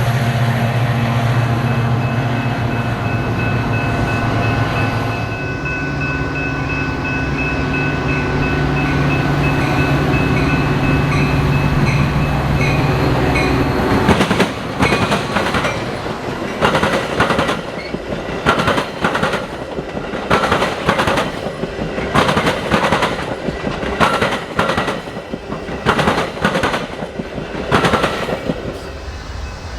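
Passing train: for about the first half a steady low diesel locomotive engine hum, then from about halfway a run of loud, irregular clanks as the cars' wheels go over the rails.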